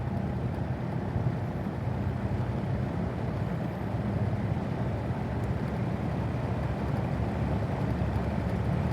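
Old Kmart box fan with metal blades running steadily on its low setting: a low motor hum under the even rush of air from the spinning blades, while its motor bearing is oiled through the oil port as it runs.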